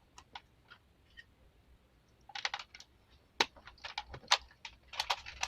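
Small hard plastic parts clicking and knocking as a divider is fitted into a plastic toy mini fridge: a few faint ticks at first, then scattered clusters of clicks over the second half, with a couple of sharper clicks a little past the middle.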